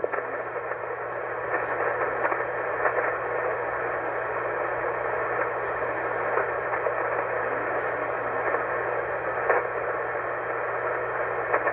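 A shortwave ham radio receiver on the 20-meter sideband hissing with steady band noise, with a low steady hum under it. A weak station's reply is buried in the static and cannot be made out.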